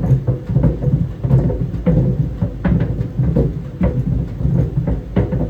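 Tennis balls tumbling in a running clothes dryer: irregular dull thumps against the drum, several a second, over the dryer's steady low hum.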